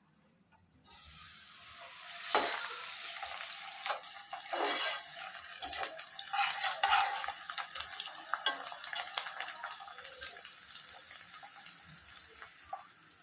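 Tap water running into a sink in a steady hiss, starting about a second in and easing off toward the end, with scattered knocks from things being handled under the stream.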